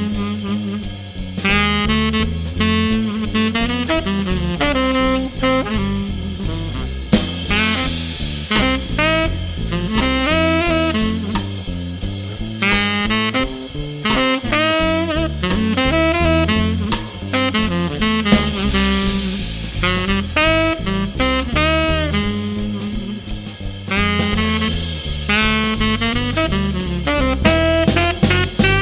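Jazz trio of saxophone, bass and drum kit playing at a swing tempo: the saxophone carries a bending, phrased melody over a walking bass line and cymbal-led drums.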